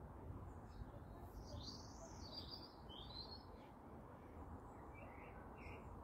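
Faint bird chirps over a low steady rumble. A run of high twittering calls comes between about one and a half and three and a half seconds in, and a few shorter calls come near the end.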